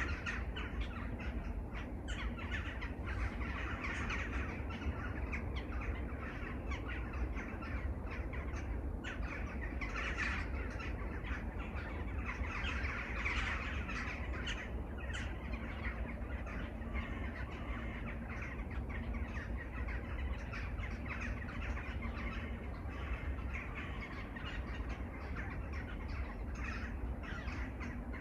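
A flock of crows cawing, many calls overlapping without a break, over a low steady rumble.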